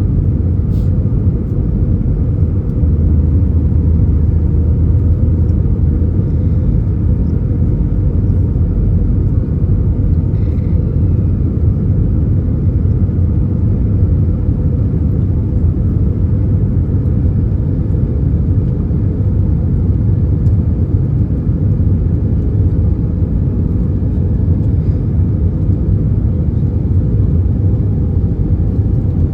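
Steady cabin rumble of an Airbus A319 in flight: engine and airflow noise heard from a window seat inside the passenger cabin, low and even throughout.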